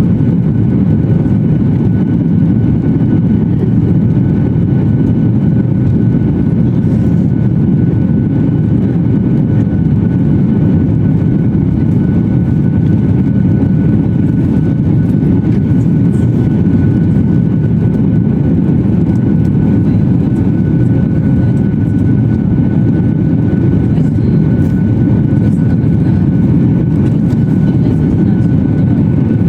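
Jet airliner heard from inside the passenger cabin: a loud, steady low engine and airflow noise with a faint high whine, unchanging throughout.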